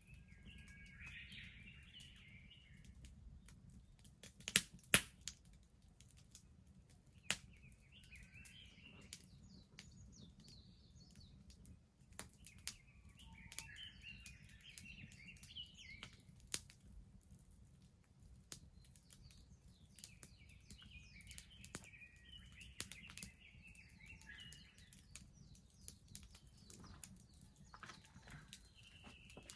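Wood bonfire crackling with scattered sharp pops, two of them loud about five seconds in. A small songbird sings short chirping phrases every few seconds over it.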